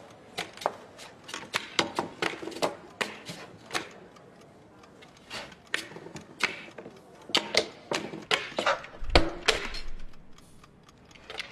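Irregular sharp clicks and light knocks from drumsticks on a drum kit, a couple of strokes a second with short ringing, used as sound effects, with one low bass-drum thump about nine seconds in.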